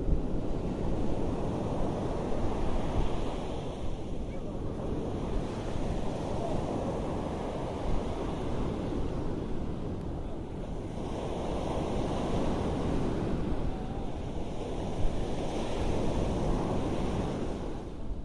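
Ocean waves washing onto a beach, swelling and easing about every four to five seconds, with wind buffeting the microphone.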